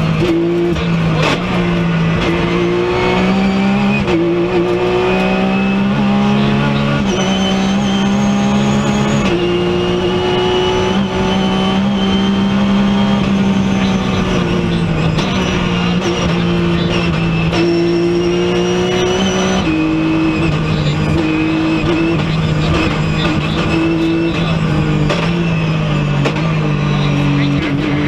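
Porsche 911 GT3 rally car's flat-six engine, heard from inside the cabin, running hard at stage pace. Its pitch swells and sinks as it accelerates and lifts, and jumps in sudden steps at gear changes every few seconds.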